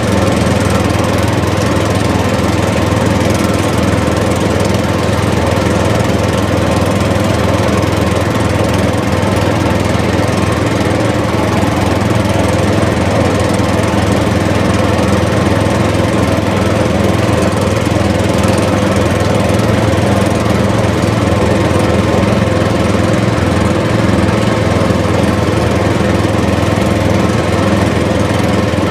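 A small engine or motor running steadily at a constant speed, a continuous drone.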